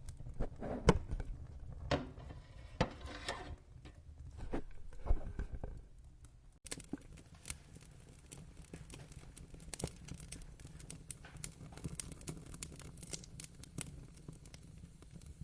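Wood fire crackling and popping over a low rumble, with several loud sharp pops in the first six seconds. About six and a half seconds in, the sound changes abruptly to a denser run of smaller crackles.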